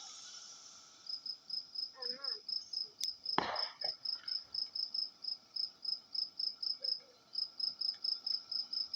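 Crickets chirping in a steady, even rhythm of about three to four high pulses a second, with brief gaps near the start and about seven seconds in. A short rushing noise cuts in about three and a half seconds in.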